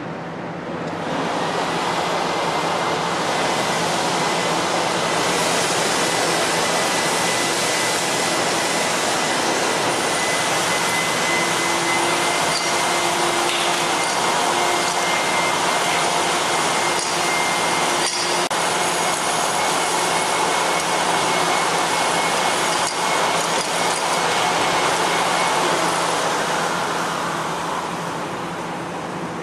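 Nilfisk S3 industrial vacuum cleaner running and sucking up a gravel and sand mixture: a steady rushing noise with a thin whistle over it. It gets louder about a second in and fades near the end.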